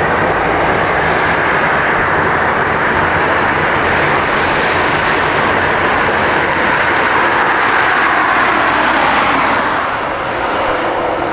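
Jet engines of an Airbus A350-900 airliner arriving to land, a loud steady rushing noise that eases a little near the end.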